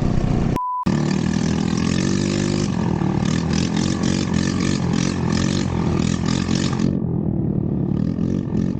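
Off-road buggy engine running. It picks up and rises in pitch after a brief dropout about half a second in, then holds steady under load.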